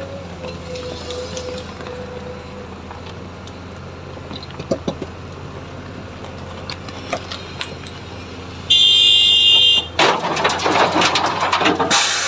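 Excavator diesel engine running steadily. About nine seconds in, a loud buzzing alarm tone sounds for about a second. It is followed by a loud rushing hiss over the last two seconds.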